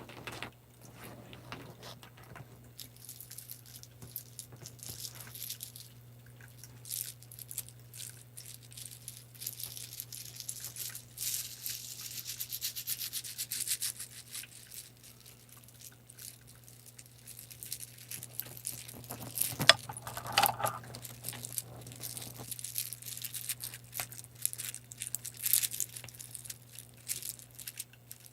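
Close-up scratching and rubbing on a prop with fingers, full of small clicks, over a steady low hum; a single sharp click stands out about two-thirds of the way through.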